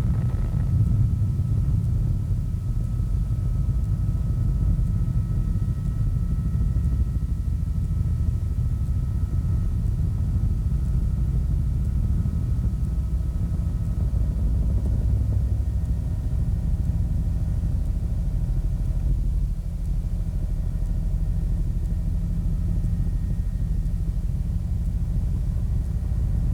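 Helicopter in flight heard from inside the cabin: a steady low rumble of rotor and engine, with faint steady higher tones above it.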